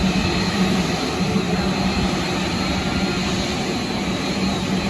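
Jet airliner engines running, a steady loud noise with a low hum and a faint high whine.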